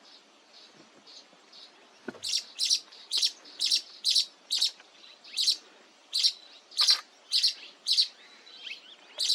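Baya weavers chirping: a run of short, high chirps, faint at first, then louder from about two seconds in, at roughly two a second.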